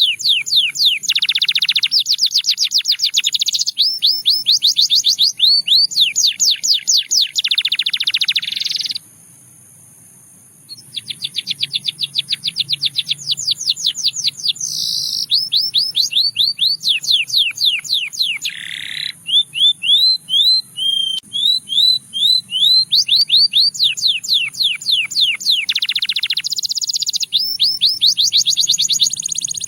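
Russian singing canary singing: fast trills of repeated high notes, shifting from one run of notes to the next every second or so. The song pauses briefly about a third of the way in.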